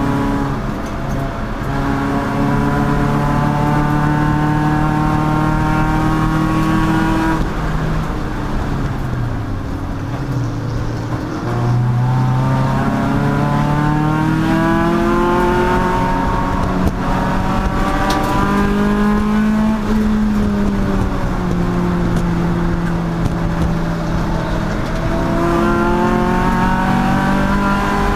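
Race car engine running hard through a lap: its pitch climbs under acceleration, falls away as the car slows about eight seconds in, climbs again from about eleven seconds, eases off again near twenty seconds, and rises once more near the end.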